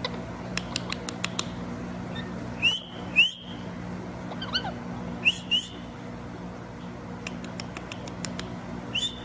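Indian ringneck parrot giving short, sharp whistled chirps in three quick pairs, with runs of rapid faint clicks between them.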